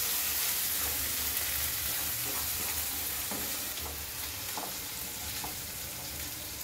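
Onion-tomato masala sizzling in a non-stick wok as a wooden spatula stirs it, with a few light scrapes of the spatula against the pan.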